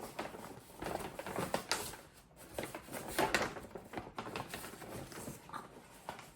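Paper bag rustling and crinkling in irregular bursts, with a few light knocks, as a mushroom is taken out of it.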